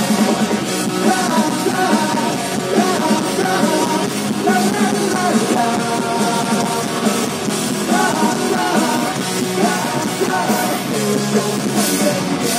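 A live punk rock band playing loudly, with a voice singing over the music.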